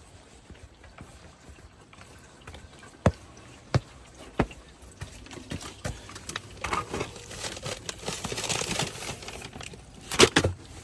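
Footsteps, three spaced steps about two-thirds of a second apart, then a few seconds of rustling and handling noise, and a loud sharp clatter near the end.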